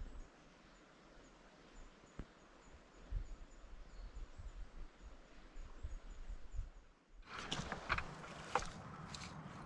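Faint outdoor ambience with wind rumbling on the microphone and faint high chirps. About seven seconds in it gives way to crackling footsteps through wet forest undergrowth.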